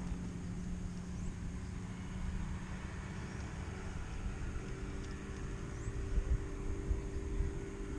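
An engine running steadily, its hum shifting slightly about halfway through, with gusts of wind rumbling on the microphone.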